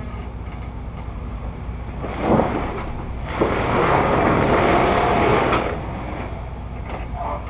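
Jeep Wrangler JK crawling over rock: the engine rumbles steadily at low revs, with a short loud surge about two seconds in and a longer, louder surge from about three and a half to five and a half seconds in as it is put under load.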